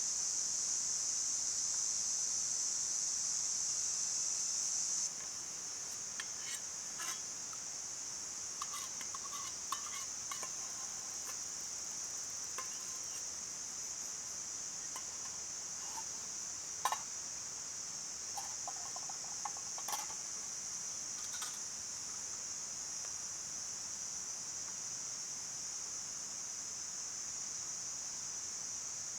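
Steady high-pitched insect chorus, dropping a little in level about five seconds in. Scattered light clicks and clinks sound over it in the middle of the stretch.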